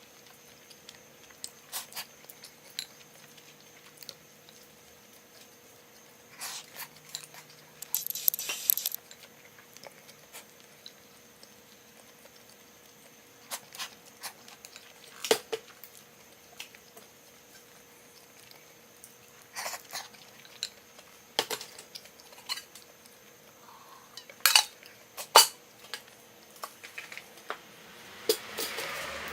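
Scattered light clicks and clinks of tableware being handled, with a short rustle about eight seconds in and a rising hiss near the end.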